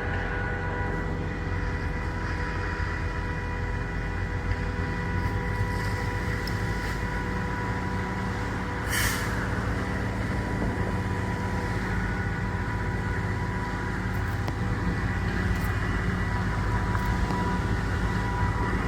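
Heavy vehicle engine running steadily, a low rumble with a steady high whine over it, and a short burst of hiss about halfway through.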